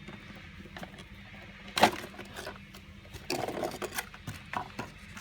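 Packaging and small electrical connectors being handled and unpacked: one sharp click about two seconds in, then rustling and small clicks.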